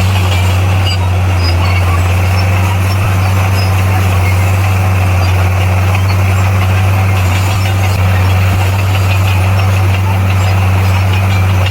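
Bulldozer's diesel engine running with a steady low drone that does not change in pitch or loudness.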